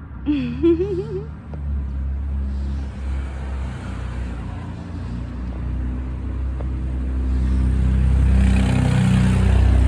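Motor vehicle engine running as a low, steady rumble that grows louder, loudest near the end.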